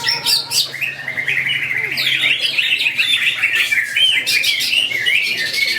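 Green leafbirds (cucak ijo) singing competitively in a dense, fast run of chirps and warbled trills, which grows fuller about two seconds in.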